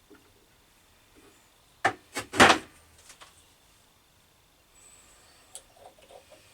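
Workshop handling knocks: two sharp clicks about two seconds in, then a louder, slightly longer clunk, and a few lighter clicks near the end.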